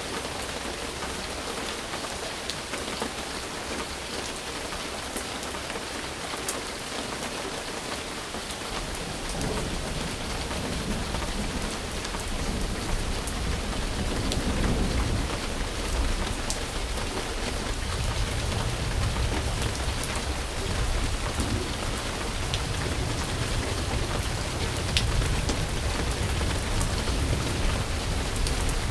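Steady rain falling, with sharp ticks of single drops. From about nine seconds in, a low rumble of distant thunder comes in and rolls on, swelling at times.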